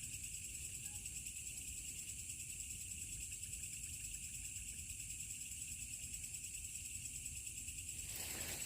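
Night insect chorus: a steady, high-pitched shrill trilling with no break, with a brief rustle near the end.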